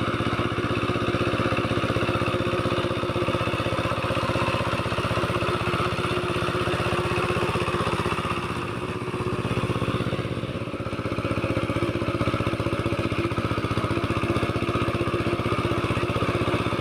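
Kamco power tiller's single-cylinder diesel engine running steadily with a fast, even chugging, its loudness dipping briefly a little past the middle, while it tows a car.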